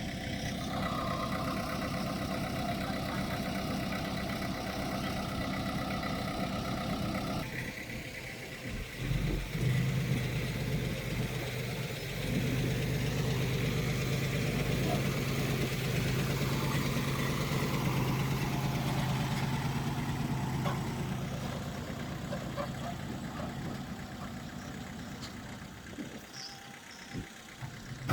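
Heavy diesel earthmoving machinery running steadily. About seven seconds in the sound changes abruptly to a lower, steady engine note that fades towards the end.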